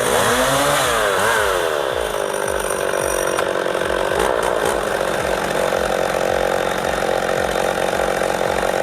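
Small petrol saw engine revving up and down a few times, then running steadily at high speed.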